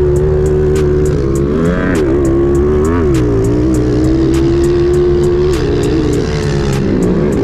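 Pit bike's small single-cylinder four-stroke engine running hard at high revs. The pitch holds mostly steady, with brief dips about two and three seconds in and again near the end as the throttle is eased and opened again.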